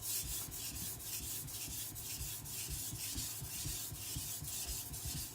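Carbon-steel CCK Chinese cleaver blade scraped back and forth across a wet whetstone in even, repeated strokes. The blade is held low to grind off the bevel shoulders and set a lower edge angle.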